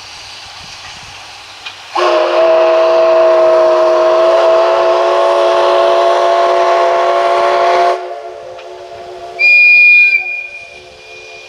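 Chime whistle of the SL Ginga's steam locomotive, C58 239, blown in one long blast of about six seconds: a chord of several steady tones over a background hiss. Near the end a short, shriller high-pitched tone sounds for under a second and fades.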